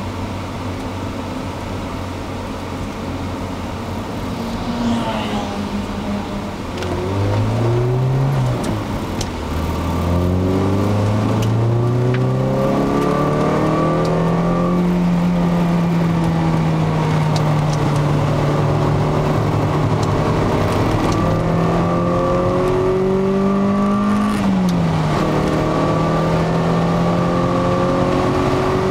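Peugeot 306 XSi's 2.0-litre four-cylinder petrol engine, heard from inside the cabin, accelerating up through the gears. The revs climb, drop at a gear change about eight and a half seconds in, climb again and hold high, then drop at another shift about twenty-four seconds in before rising once more.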